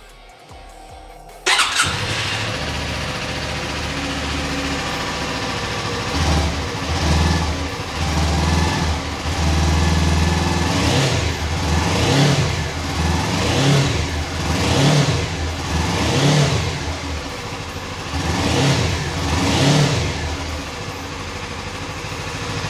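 2020 Suzuki V-Strom 250's 248 cc parallel-twin engine firing up about a second and a half in and idling. It is then revved again and again with quick throttle blips, one held a little longer, before it settles back to idle near the end.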